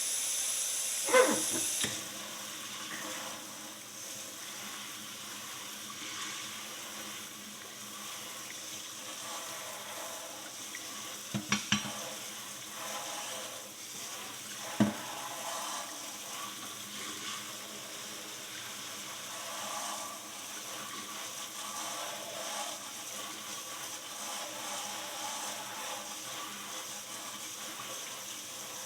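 Water running and splashing as bleach-soaked steel horseshoes are rinsed off. There are a few sharp knocks: one about a second in, a quick cluster near the middle, and another a few seconds later.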